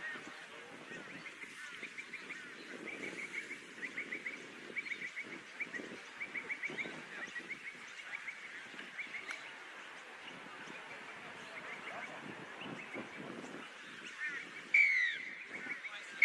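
Birds calling in quick runs of short chattering notes. Near the end comes a much louder shrill sound that drops in pitch and then holds steady.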